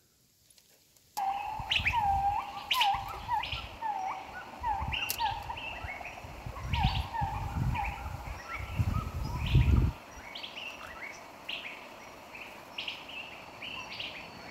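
Wild birds calling: one bird repeats a short, up-hooked note about once or twice a second from about a second in until about eight seconds in, with higher chirps from others throughout. Low rumbles come and go in the middle.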